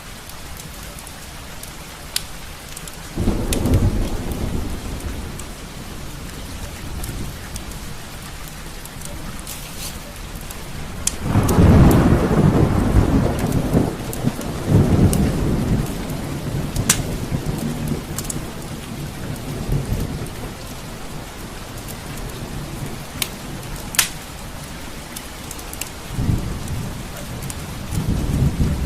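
Steady rain with rolls of thunder, a short rumble about three seconds in and a longer, louder one from about eleven to sixteen seconds, with softer rumbles later. A few sharp clicks are scattered through it.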